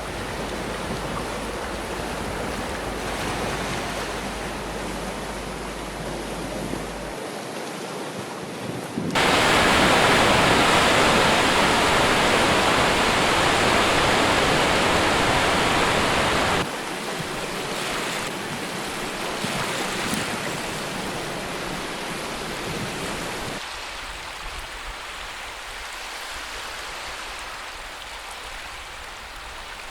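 Sea waves and surf washing on a shore, spliced from several recordings that change abruptly. The surf is much louder from about nine seconds in to about sixteen, and fainter over the last several seconds.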